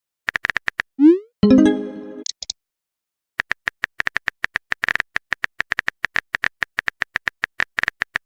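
Chat-app sound effects: a few typing taps, then a short rising swoosh and a pitched message chime about a second in. After a brief pause, a long run of rapid, fast, clicky keyboard taps follows for the rest of the time.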